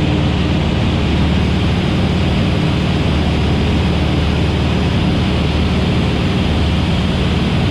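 Van's RV-8's piston engine and propeller droning steadily in the cockpit at reduced pattern power, with a low hum under a broad rush of noise.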